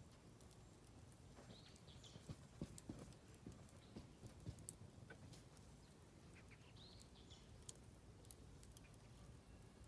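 Oak firewood crackling and popping in a campfire, the snaps coming irregularly and thickest a couple of seconds in. A bird chirps briefly twice, about one and a half seconds in and again near seven seconds.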